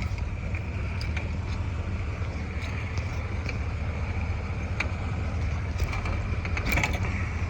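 Camlock hose coupling levers being pressed shut: a few short metal clicks, with a louder cluster of clicks near the end, over a steady low rumble.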